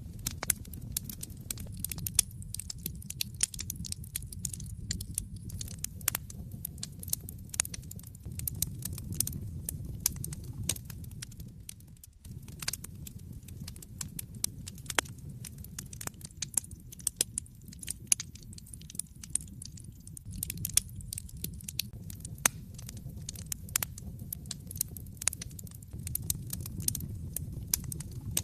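Wood fire in an open fireplace crackling, with frequent sharp pops and snaps over a low, steady rumble of the flames.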